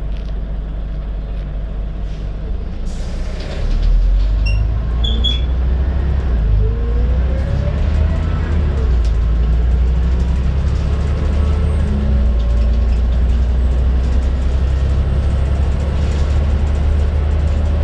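Scania N94UD double-decker bus with a ZF automatic gearbox pulling away: the engine's low rumble gets louder about four seconds in, and a rising gearbox whine follows as the bus gathers speed.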